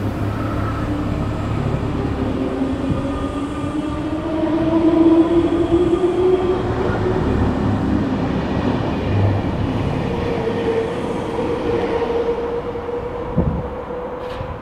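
RER B electric multiple unit of coupled MI79 and MI84 sets pulling away from the platform: the electric traction motors whine, rising in pitch as the train gathers speed, over a low rumble of wheels on the rails. The sound eases off a little near the end.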